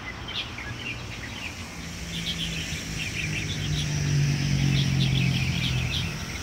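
Many small birds chirping and twittering together in a spring dawn chorus. A low engine drone of a passing vehicle swells up under them about two seconds in, is loudest around the middle, and fades near the end.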